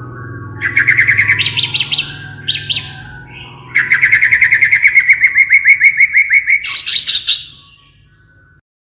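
White-rumped shama giving its loud, harsh rattling 'kretekan' call, rapid trains of short clicking notes in several bursts. The longest burst lasts about three seconds and a higher, rougher burst comes near the end before it stops. This is the shama's agitated, aggressive call, used to provoke rival males.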